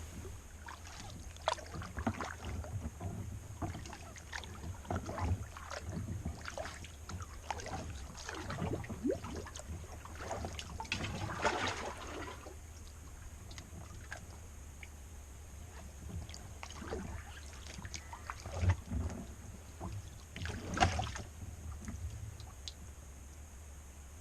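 Kayak paddle strokes: the blades dip and splash in the water and drip between strokes, unevenly spaced, with the loudest splashes about halfway through and again near the end. A steady low rumble runs underneath.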